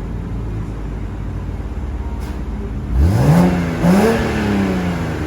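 BMW N54 inline-six with a single BorgWarner turbo idling, then revved twice in quick blips about three seconds in, the pitch rising and falling back each time.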